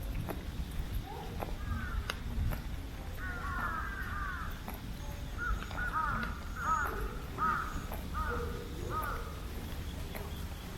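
A crow cawing over and over: a quick cluster of calls near the middle, then a run of about six caws, one every second or less, under a steady low rumble.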